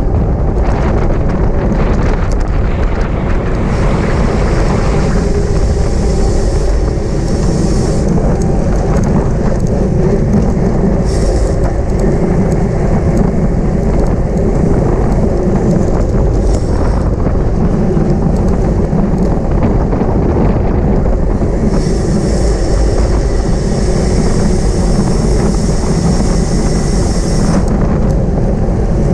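Steady, loud wind rush on the microphone of a camera riding with a racing bicycle at speed, mixed with road and tyre rumble.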